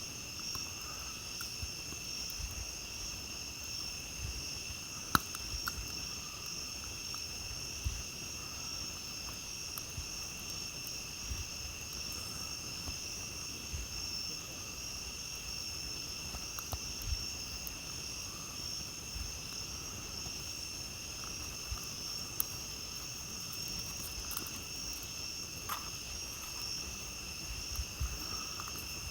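Night insects chirring in a steady, unbroken chorus, with a few sharp pops from a campfire crackling, the loudest about five seconds in.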